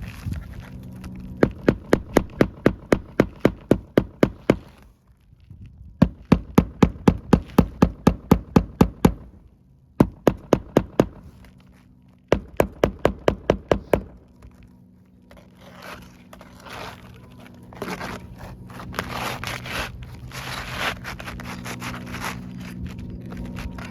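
Hammer pounding leftover roofing nails flat into asphalt shingles: quick blows at about four a second in four runs, with short pauses between them. After about 15 seconds the hammering stops and gives way to scraping and rustling.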